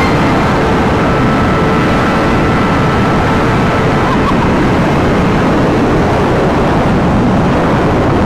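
Honda CBR1000RR sportbike ridden hard at speed: engine running high under heavy, steady wind rush on the camera microphone.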